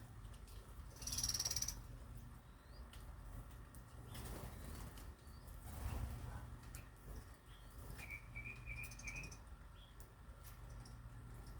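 Small birds chirping and fluttering their wings, with a brief high, buzzy burst about a second in and a quick run of about five chirps near the end.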